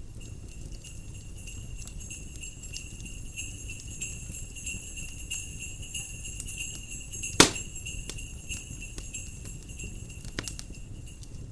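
Jingle bells ringing steadily over a crackling log fire, with a low rumble of wind. The fire pops loudly once, about seven and a half seconds in.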